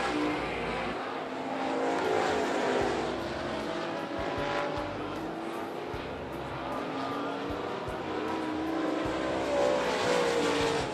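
Several dirt late model race cars running at speed on a dirt oval, their engine notes rising and falling as the cars go past.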